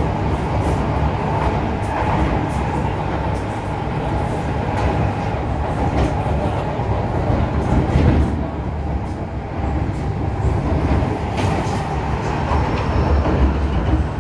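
MTR M-Train electric multiple unit heard from inside a car, running along the track with a steady low rumble. Scattered short clicks come from the wheels passing over rail joints.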